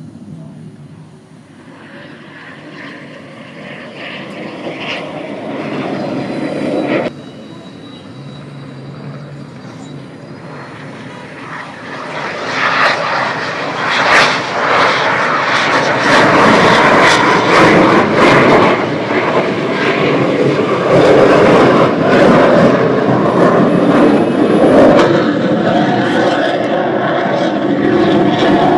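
Fixed-wing aircraft flying past at an air show. The engine noise builds for several seconds and breaks off abruptly about seven seconds in. A second, louder pass swells from about twelve seconds and stays loud and crackling to the end.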